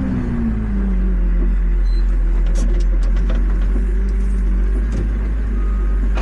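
Tractor's diesel engine running steadily with a low rumble, its note dropping slightly in the first second.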